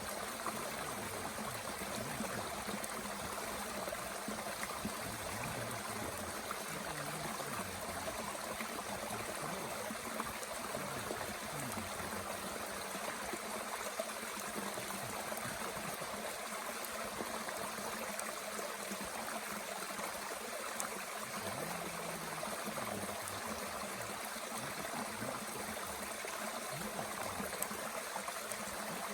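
Mountain stream running steadily, with a few faint ticks from a small wood fire crackling in a Bush Box stove.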